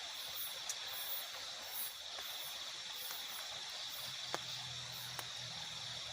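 Night forest insect chorus: a constant high, pulsing trill with faster, higher chirps repeating over it. A few sharp clicks come through it, one about a second in and two more near the end.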